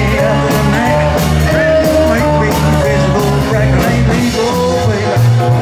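Live rock and roll band playing: a walking bass line stepping under steady drum beats, with a bending lead melody line above.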